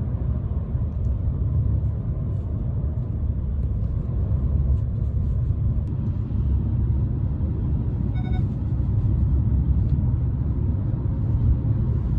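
A steady low rumble that starts abruptly, with a short high beep about eight seconds in.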